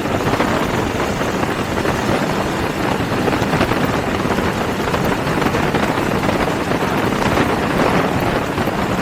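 Steady wind rush and road noise of a motorcycle ridden at highway speed, heard through a mic exposed to the wind.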